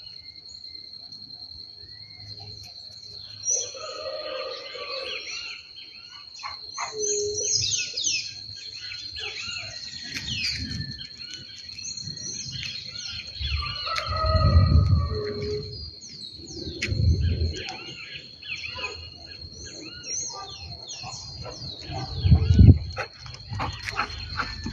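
Several birds chirping and singing in quick, overlapping calls over a steady high-pitched tone, with a few low rumbles, the loudest about two-thirds of the way in and near the end.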